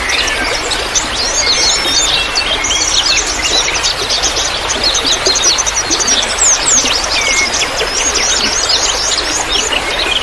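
Many small birds chirping and twittering at once in a dense chorus of quick whistles and trills, over a steady trickle of running water.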